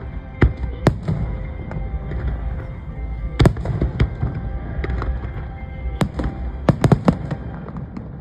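Aerial fireworks bursting in a string of sharp bangs at uneven intervals, with a quick run of several reports about seven seconds in, over a steady rumble.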